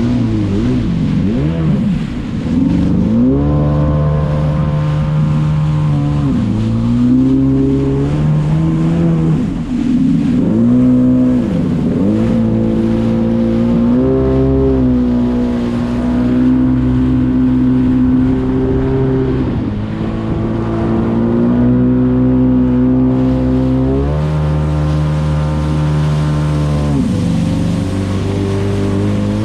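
Jet ski engine running under throttle. Its note drops and climbs again several times as the throttle is eased and reopened, holding steady for a few seconds in between.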